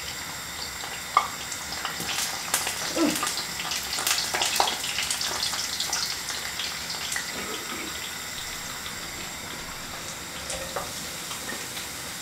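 Corn fritters sizzling in hot oil in a frying pan, with the clicks and scrapes of a utensil turning them. One sharp click comes about a second in, and the clicks and scrapes are busiest between about two and seven seconds in.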